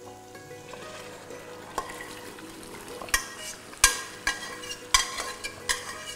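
Mutton frying in onion-tomato masala with a light sizzle. From about three seconds in, a spoon being stirred through it knocks against the pot several times.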